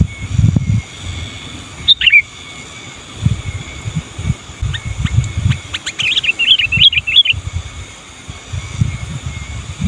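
Sooty-headed bulbul (kutilang) calling: one sharp falling note about two seconds in, then a quick run of chattering notes a little past halfway. Repeated low rumbles sit underneath, with a faint steady high tone.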